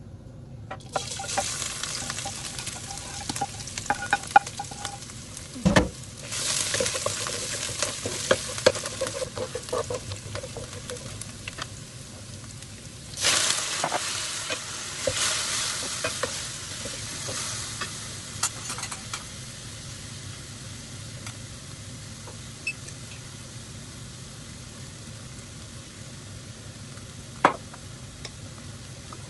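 Chopped squid sizzling in hot oil in a nonstick frying pan as it is stirred. The sizzle swells about six seconds in and again about thirteen seconds in, then settles to a quieter steady frying. There is one loud thump just before the first swell.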